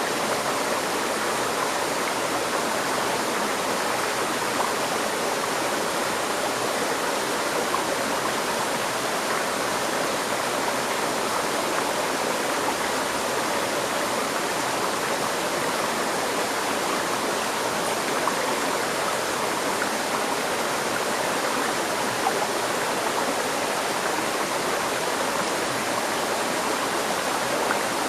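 Water of a river stream flowing and splashing in a steady, even rush.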